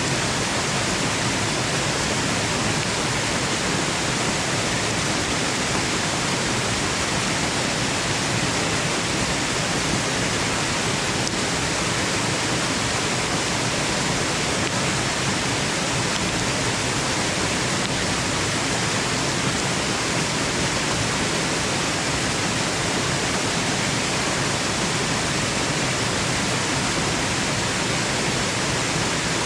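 Waterfall: falling water making a steady, even rush of noise that does not change.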